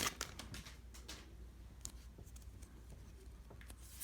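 Faint, scattered light swishes and ticks of trading cards being slid and flicked against one another as a freshly opened pack is looked through.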